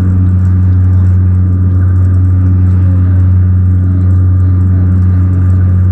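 Saab turboprop airliner in flight: a loud, steady, low propeller-and-engine drone with a faint constant high whine above it.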